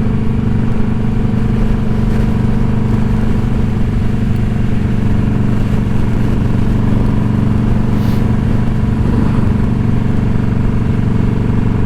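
Indian Scout Bobber's V-twin engine running at a steady cruising speed, with an even exhaust note and no change in revs.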